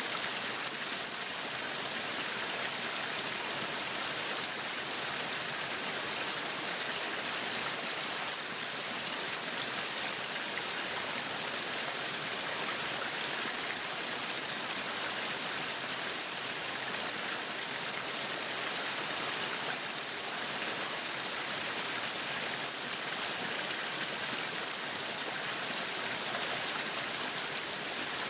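Meat sizzling on a yakiniku grill: a steady, even hiss with no pauses.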